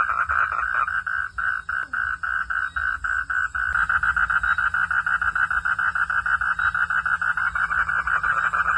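Frogs calling in a pulsed chorus, about four notes a second with clear gaps at first, growing denser and almost continuous from about four seconds in.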